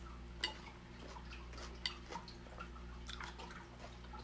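A person chewing a mouthful of mango, cucumber and salmon salad with the mouth closed: scattered short, wet mouth clicks and smacks, a few sharper ones.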